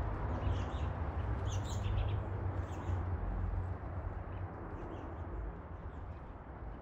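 Wind rumbling on the microphone, with small birds chirping, the chirps thickest in the first three seconds; the whole sound fades steadily toward the end.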